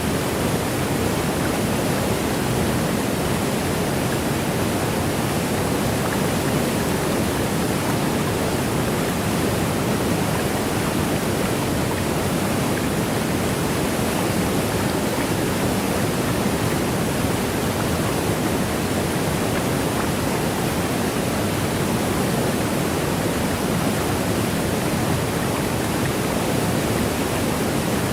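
Waterfall, water rushing down in a steady, unbroken wash of noise that is fuller in the low and middle range than in the highs.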